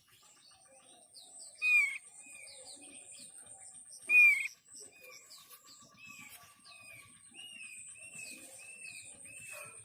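Thick-billed white-eye (opior paruh tebal) lure calls: two loud, short calls that drop in pitch, about 1.7 s and 4.2 s in, among softer chirps, then a string of evenly repeated calls about twice a second near the end. A steady, pulsing, high-pitched buzz runs underneath.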